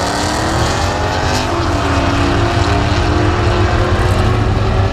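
A pair of race cars at full throttle down a drag strip, several engine notes climbing and shifting in pitch over a constant low rumble.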